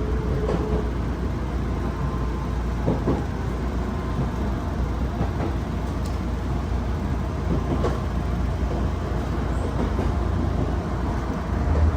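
Steady low rumble of a passenger train running along the line, heard from inside the carriage, with a few faint clicks.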